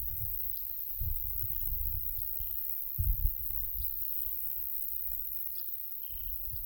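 Light summer wind buffeting the microphone in gusts, with a low rumble that peaks about three seconds in. Faint short bird chirps come now and then in the background.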